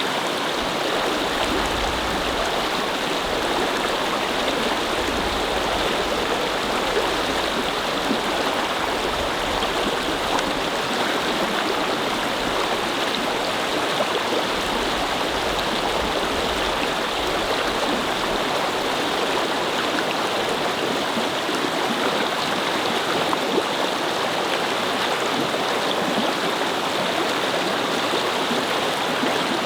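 Babbling brook: shallow water flowing and burbling over rocks in a steady, unbroken rush.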